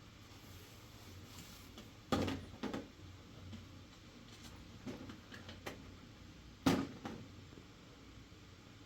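A few irregular knocks and clatters of household things being handled and set down, the two loudest about four and a half seconds apart, over a faint steady hiss.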